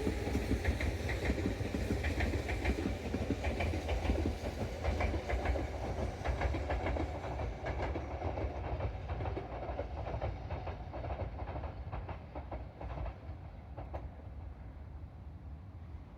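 Tobu Isesaki Line electric train running on the track, wheels clacking rapidly over the rail joints over a low rumble. The sound fades gradually as the train moves away.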